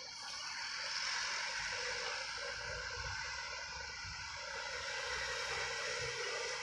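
Vehicle engine rumbling at a moderate distance over steady outdoor noise, swelling and easing a little as it goes.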